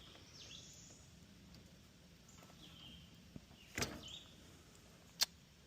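Faint bird chirps in the background, broken by a knock a little past halfway and a single sharp click near the end, small handling noises as the car's wiring is worked on.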